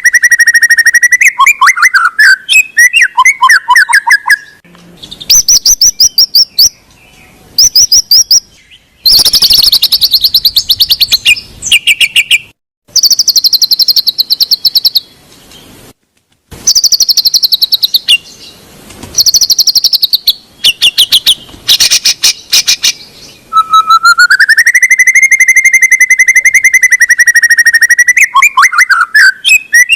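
Loud songbird song used as a training or lure recording for white-rumped shamas: fast runs of repeated chattering notes and high whistled phrases, cut twice by brief sudden gaps, with a rising whistled phrase coming back near the end.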